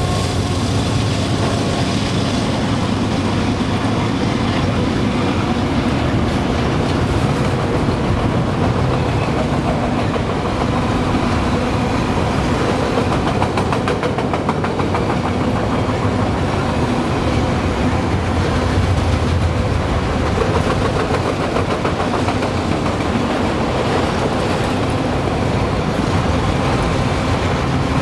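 CSX freight train's enclosed autorack cars rolling past, a steady rumble of steel wheels on rail with a clickety-clack of wheels over the rail joints.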